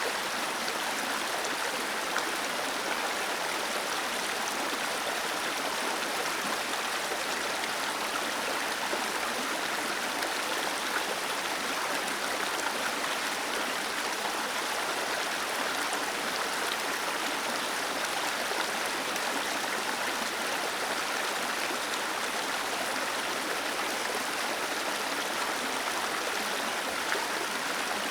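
Small waterfall cascading over stones: a steady, even rush of falling and splashing water.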